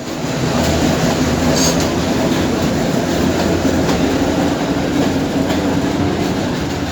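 New York City subway train running, a steady loud rumble with rail noise from the wheels on the track.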